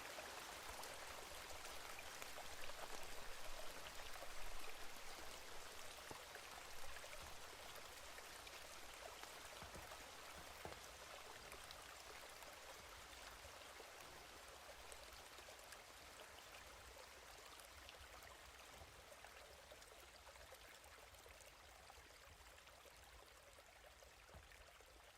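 Steady rain: an even hiss dotted with many small drop ticks, slowly fading out over the second half.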